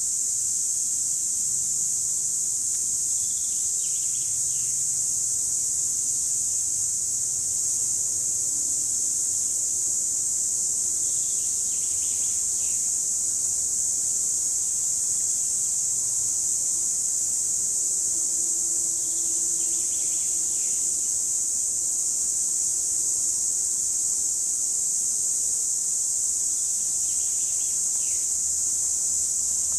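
Cicadas singing: one continuous, steady high-pitched buzz with no breaks. Faint short calls sound about four times underneath it, spaced several seconds apart.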